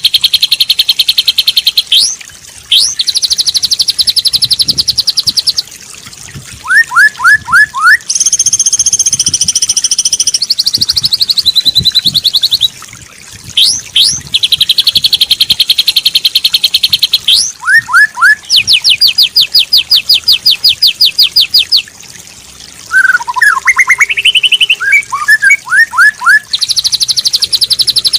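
A loud bird-song training track of rapid, repeated chattering trills, each a second or two long, between short groups of quick rising whistles and a varied twittering phrase near the end. This is the kind of song, white-rumped shama song mixed with other birds' songs, that is played to teach a caged shama.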